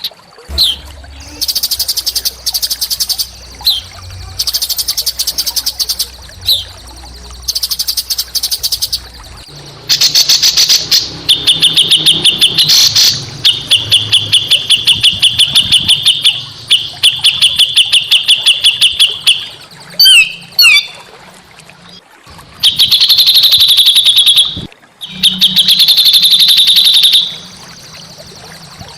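Small songbird singing in harsh, rapid chattering trills, burst after burst of fast repeated notes with short pauses between, and a few quick sliding whistles about two-thirds of the way through.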